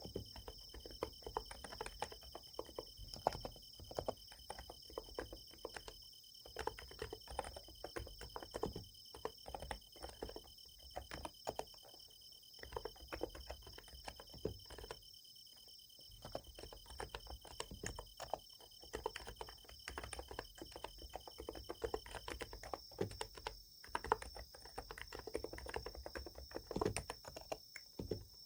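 Typing on a Niz Plum x108 electrostatic capacitive keyboard: a steady stream of soft key clacks with a couple of brief pauses. Behind it, night insects trill steadily; a lower trill stops about three-quarters of the way through.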